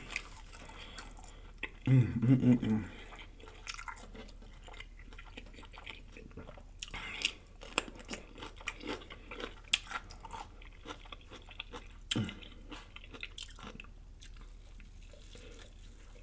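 Close-miked person chewing and biting food, with wet mouth smacks and small crunches coming irregularly throughout. There is a brief voiced sound about two seconds in.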